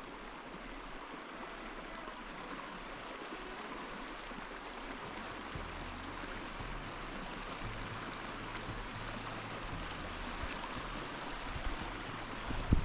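Steady rush of running water, with a low rumble of wind on the microphone building up near the end.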